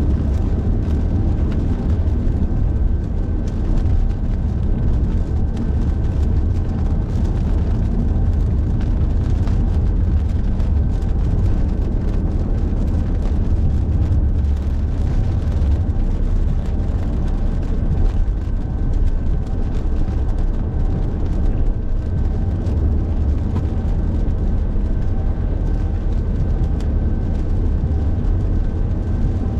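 Car driving at steady speed: a constant low rumble of road and engine noise, with faint quick ticks of rain spatter on the car throughout.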